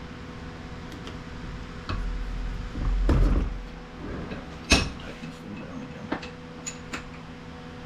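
Handling and knocking while forcing open a plastic power adapter case: a low rumble, then one sharp knock about halfway through, followed by a few light clicks.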